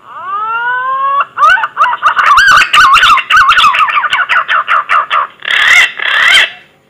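Punai (green pigeon) whistling call, used as a hunter's lure call. It opens with a long rising whistle that levels off, breaks into rapid wavering warbled notes for a few seconds, and ends with two harsher, rougher notes.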